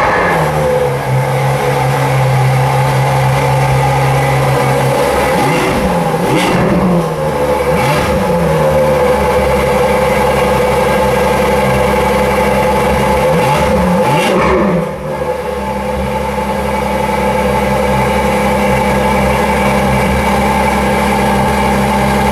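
A Ferrari's engine running at a fast idle just after start-up, revved briefly a few times, twice about six to eight seconds in and twice around fourteen seconds, then settling to a steadier idle.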